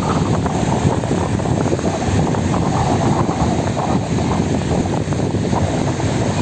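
Wind buffeting the microphone over the sea, a loud steady rumbling rush with no distinct events.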